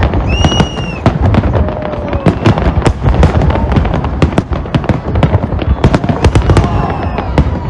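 Aerial fireworks going off in rapid succession: dense cracks and booms over a continuous low rumble. A short high whistle comes just under a second in.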